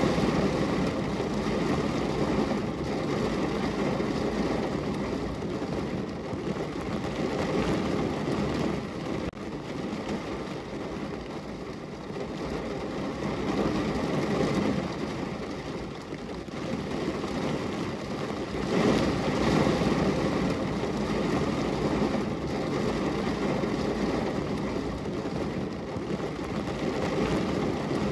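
Steady rain falling on a window: an even, continuous rushing noise that swells and eases every few seconds.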